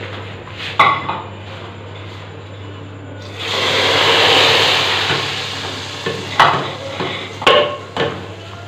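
Sizzling in a cooking pot: a burst of hissing starts about three seconds in as food goes into hot oil, then fades over a couple of seconds. A spoon knocks against the pot once before the sizzle and several times after it.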